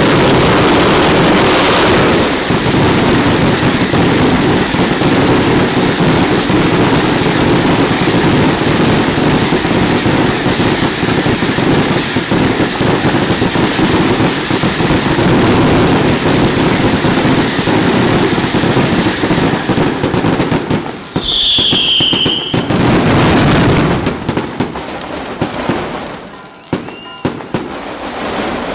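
Daylight fireworks barrage: a dense, continuous, loud rattle of firecracker reports for about twenty seconds. Then a short whistle, and the barrage thins out to scattered bangs.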